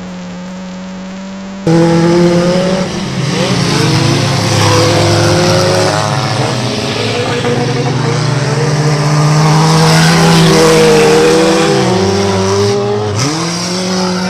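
Several stock car engines running hard at high revs, their pitch rising and falling as they accelerate and lift off; they cut in suddenly about two seconds in. Near the end one engine drops sharply in pitch and climbs back up.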